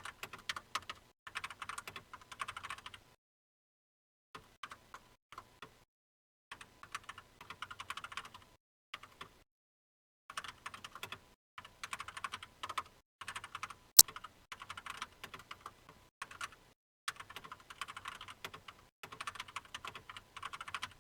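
Typing on a computer keyboard in runs of rapid keystrokes separated by short pauses, with one sharper, louder key or mouse click about two-thirds of the way through.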